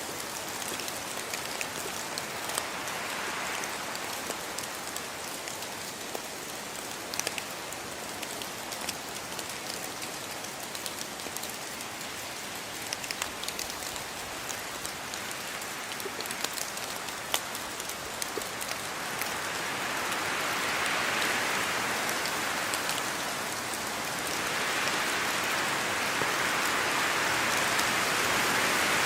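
Steady rainfall, a continuous hiss with many individual drops ticking. It swells louder about two-thirds of the way in, eases slightly, then swells again near the end.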